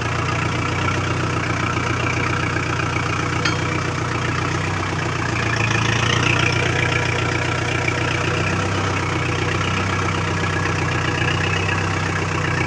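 Kubota tractor's diesel engine idling steadily, a little louder for a couple of seconds around the middle.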